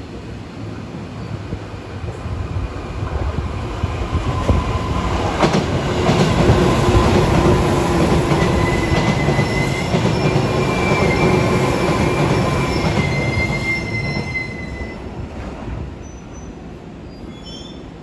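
Tobu 10030 series electric train of two coupled sets running through the station without stopping. The rumble of wheels on rail builds up, is loudest in the middle with a few sharp clacks and several steady high squealing tones, then fades away near the end.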